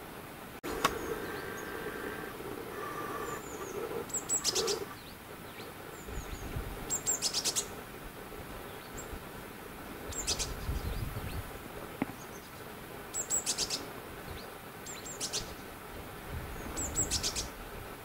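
Small songbirds calling in a winter forest: short, high, rapid chirping trills every two to three seconds. A single sharp click comes just under a second in.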